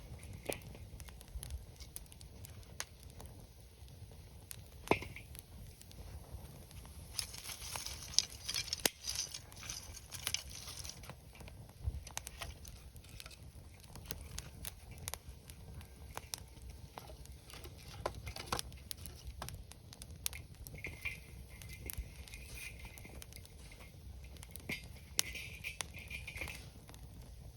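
Wood campfire crackling: scattered sharp pops and ticks, with a couple of spells of hiss coming and going.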